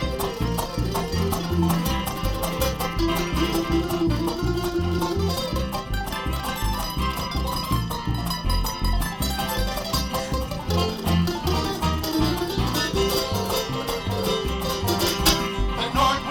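Live bluegrass band playing an instrumental break between sung verses: picked acoustic guitar and banjo over a steady bass beat.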